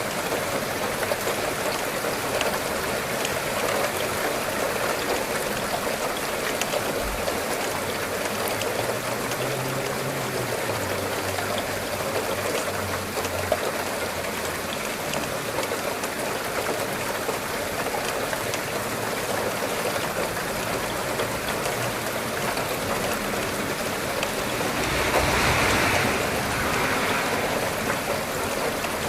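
Steady rainfall, an even hiss of water that swells louder for a couple of seconds near the end.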